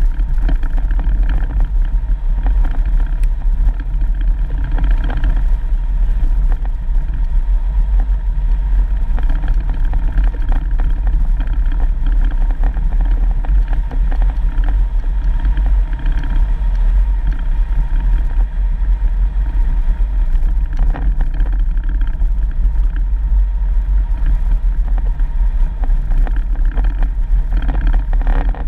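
Off-road vehicle driving on a dirt road: a steady, loud engine and road rumble runs throughout without a break.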